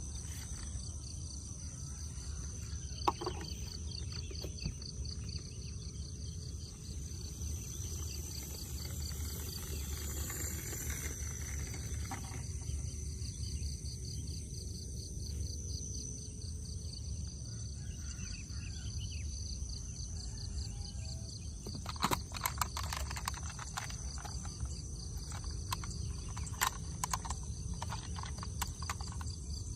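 Insects, likely crickets, chirping steadily in a rapid pulsing trill over a low rumble, with a few sharp clicks and knocks, a cluster of them about two-thirds of the way through.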